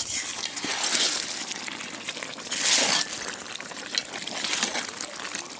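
Water pouring and splashing in uneven surges, loudest about three seconds in.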